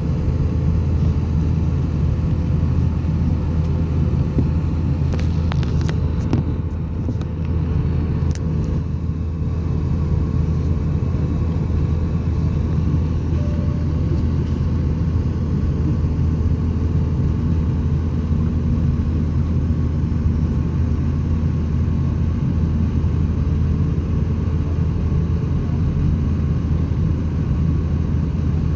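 Steady low rumble of engine and airflow noise heard inside the cabin of an Airbus A350 with Rolls-Royce Trent XWB engines, with a faint steady hum and a few brief clicks partway through.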